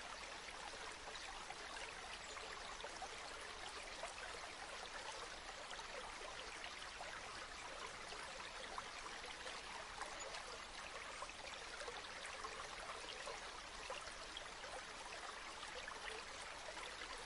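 River water flowing steadily: an even rush of water with fine trickling flecks, unchanging throughout.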